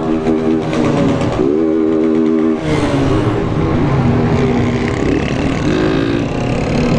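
Honda CG 160 motorcycle's single-cylinder engine running while riding. Its pitch rises about a second and a half in, drops back near the three-second mark, then holds lower, with wind rush on the microphone.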